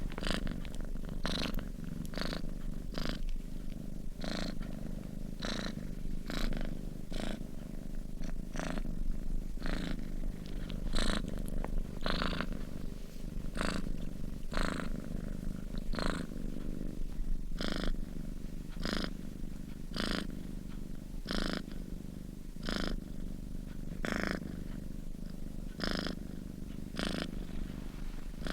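Sleeping domestic cat purring: a steady low rumble, with a soft airy hiss coming back roughly once a second.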